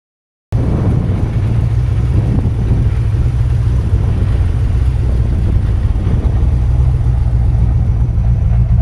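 Supercharged C4 Corvette V8 engine running steadily with a deep, even rumble, cutting in abruptly about half a second in.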